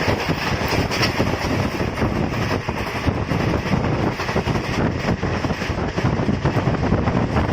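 Train running on a curve: a steady rumble and rattle of wheels on the rails.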